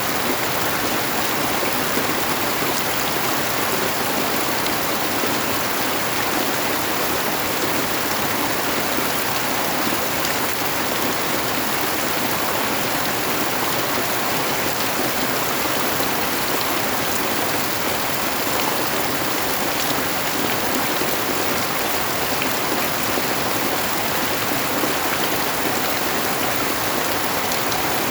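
Steady heavy rain falling, a dense even hiss with no breaks or changes.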